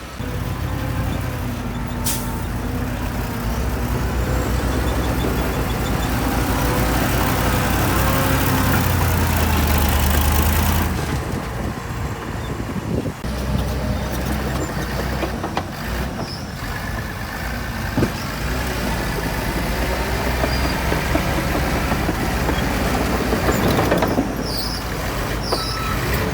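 Heavy diesel earthmoving machinery running steadily, its engine note building for about ten seconds and then dropping off suddenly, with a few short knocks and hisses later on.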